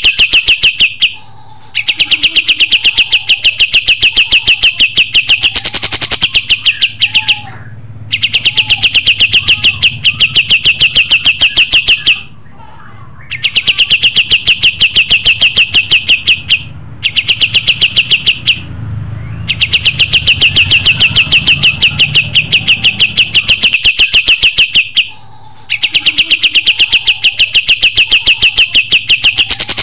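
Kapas tembak songbird singing: a fast rapid-fire string of high chirps, about ten a second, in long runs of several seconds broken by short pauses.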